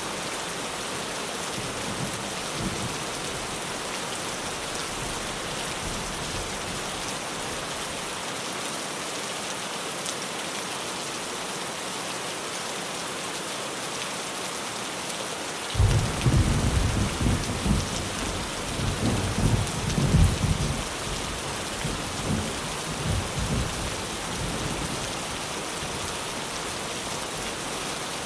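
Heavy rain drumming steadily on a tin roof. About halfway through, thunder breaks suddenly and rumbles low for several seconds, loudest a few seconds in, then fades back under the rain.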